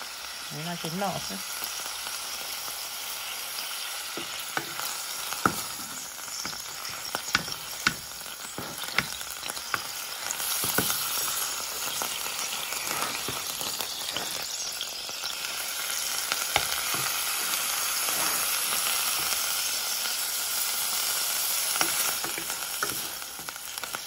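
Wild greens sizzling as they stir-fry in a ceramic-coated pot, with a wooden spatula scraping and knocking against the pot every second or so. The sizzle grows louder about ten seconds in.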